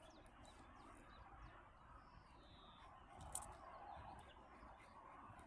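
Near silence: faint outdoor background with a few high bird chirps, and one short sharp click about three and a half seconds in.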